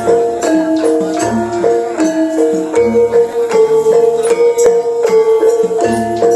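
Banyumas-style gamelan music of the kind played for ebeg. Struck metallophone notes repeat a melody over low strokes that come about every second and a half, played loud through a sound system.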